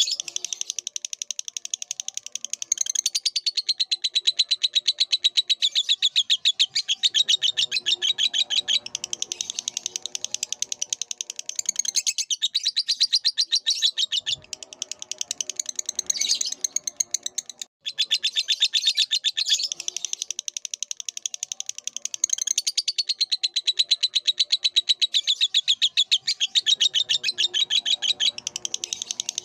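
Lovebird singing a long, fast, unbroken chattering trill of high chirps, with only a momentary break about two-thirds of the way through.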